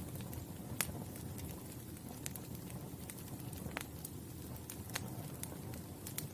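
Wood fire burning: a steady low rumble of flames with scattered sharp crackles and pops, a few louder pops standing out.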